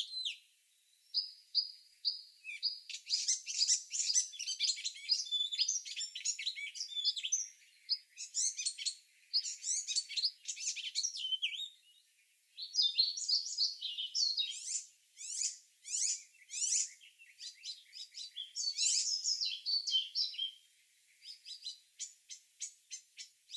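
Small songbirds chirping and singing in quick, overlapping runs of high notes, with short pauses between phrases; near the end comes a series of evenly spaced short chirps.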